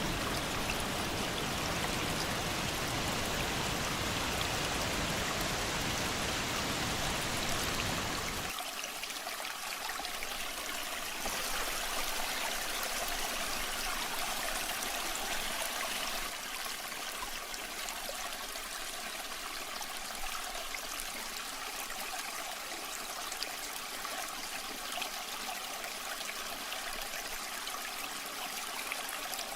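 Running water of a waterfall or stream: a full, deep rush that changes abruptly about eight seconds in to a lighter, thinner trickling flow without the low rumble.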